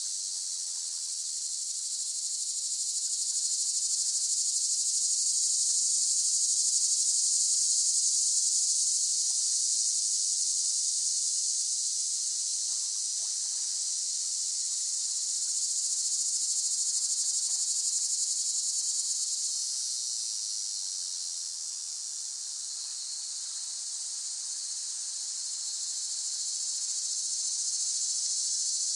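A chorus of cicadas buzzing, a dense high-pitched drone that swells and ebbs slowly.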